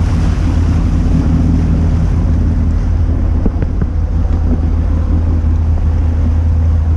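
Fishing boat's engine running steadily under way, a low drone, with water rushing along the hull and wind buffeting the microphone.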